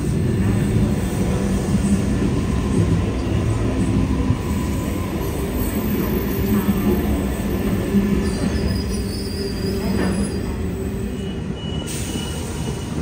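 Sydney Trains double-deck electric train pulling in and braking to a stop at the platform, its motors giving a low hum that steps down in pitch. Thin high brake or wheel squeal comes in during the second half.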